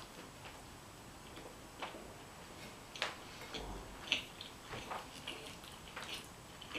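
Close-miked chewing of a breadstick: faint, scattered wet mouth clicks and smacks, roughly one a second.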